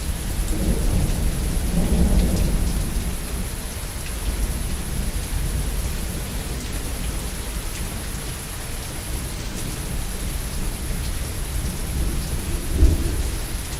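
Heavy rain falling steadily with deep rolls of thunder, one rumble swelling about a second or two in and another sharper one near the end.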